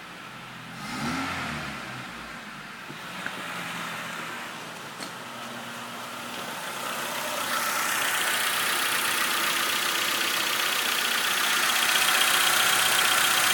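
Renault Megane 1.6-litre K7M 720 eight-valve petrol four-cylinder running, with one brief rev that rises and falls about a second in, then running steadily. It grows louder and brighter from about six to eight seconds in and stays there.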